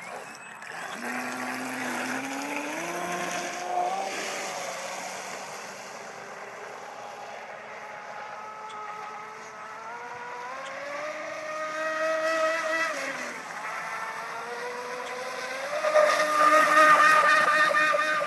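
Pro Boat Miss Geico RC catamaran's electric motor and propeller drive running under throttle, with a whine that rises and falls in pitch as the boat speeds up and slows. It surges three times; the last surge, near the end, is the loudest.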